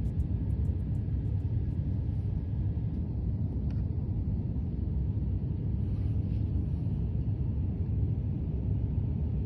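Steady low rumble of vehicle noise, even throughout, with a few faint high ticks in the first second and a half.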